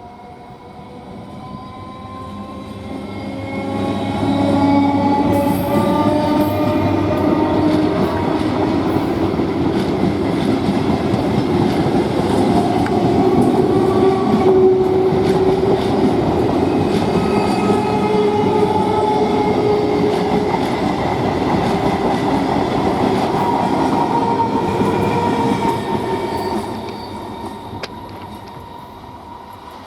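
A train passing: it grows louder over the first few seconds, runs loud for about twenty seconds with several held tones over a dense rumble, then fades away near the end.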